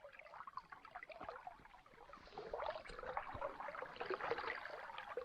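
Faint flowing river water babbling, a little louder from about halfway through.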